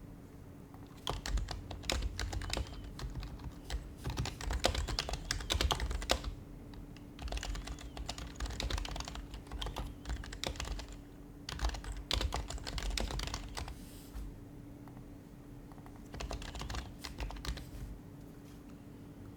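Typing on an HHKB Professional HYBRID Type-S keyboard, its quiet Topre keys clicking in quick runs of keystrokes with short pauses between, the longest pause near the end. A faint steady hum sits under it.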